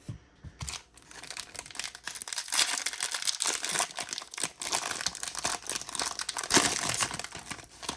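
A baseball card pack wrapper being torn open and crinkled by hand: dense crackling that starts about a second in and goes on, louder in the second half.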